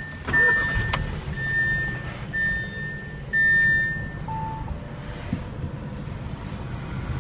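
A 2015 Audi A3's dashboard warning chime sounding four times, about once a second, then a single shorter, lower beep, over the steady low hum of its 1.8-litre turbocharged four-cylinder idling just after start-up.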